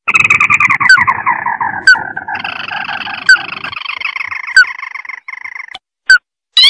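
Crake calls played as a bird-lure recording. A long, dense, rattling trill slides down in pitch and then jumps higher, lasting about five and a half seconds, with short rising notes about once a second. Near the end the trill stops and only the separate short notes remain.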